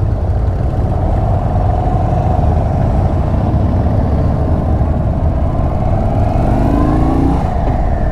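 Indian Chief Bobber Dark Horse's V-twin engine pulling hard under acceleration while being ridden, over a heavy low rumble. The engine note climbs steadily, then drops near the end as it shifts up.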